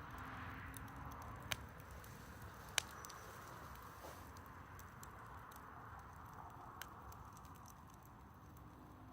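Wood fire burning with a soft hiss and occasional sharp pops from the burning wood, two loud ones early and a smaller one near the end.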